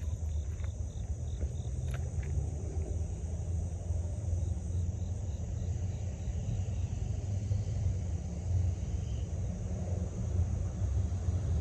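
Steady low rumble with no clear beginning or end, with crickets chirping faintly in the first half.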